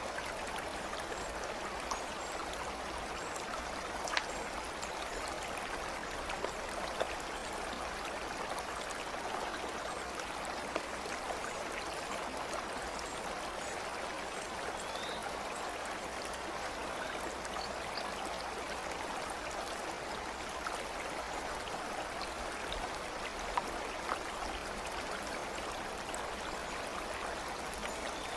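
A stream flowing steadily, an even rush of running water, with a few brief sharp clicks scattered through it.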